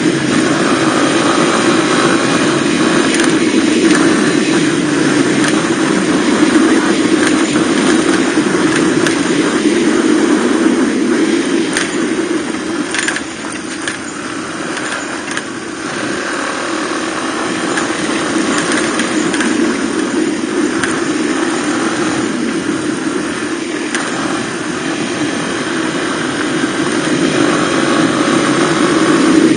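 Suzuki DR250R's single-cylinder four-stroke engine running as the bike is ridden, with a steady rush of wind and road noise. The engine eases off about halfway through, then picks up again.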